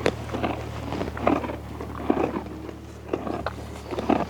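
Donkey chewing and crunching a snack, irregular crunches about every half second, over a steady low hum.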